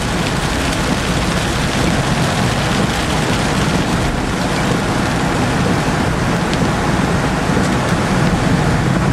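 Steady road and engine noise of a moving car heard from inside the cabin, with rain falling on the car in a dense patter of drops.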